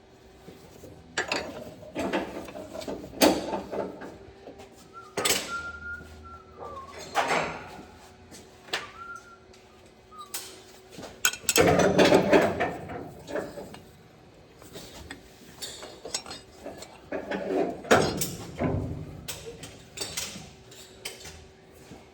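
Metal clanking and clicking of tie-down straps and hooks being handled to secure a truck on a chassis dyno, with a couple of short squeaks.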